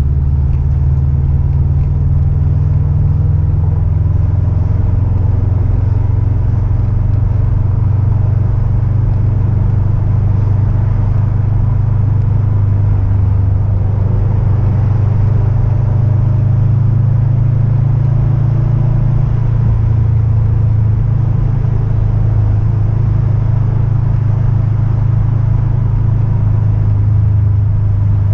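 Car driving at a steady cruise: a continuous low engine and exhaust drone with road rumble, holding an even level with no revving.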